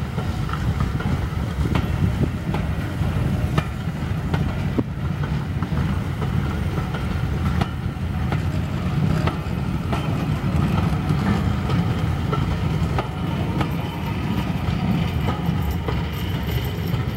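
Railway passenger coaches rolling past close by: a steady low rumble with scattered sharp clicks and knocks from the wheels on the track.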